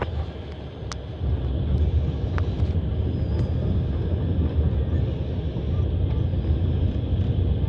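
Moving passenger train heard from inside the carriage: a steady low rumble of wheels on the rails that grows louder about a second in, with a few sharp clicks.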